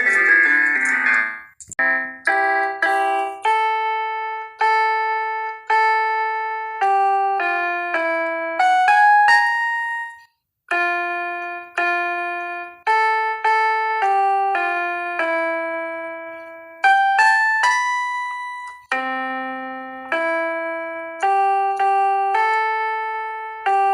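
Solo piano-voiced keyboard playing a slow melody of single notes and small chords, each note struck and left to fade. A fast flurry of notes opens it, and the playing breaks off briefly about ten seconds in.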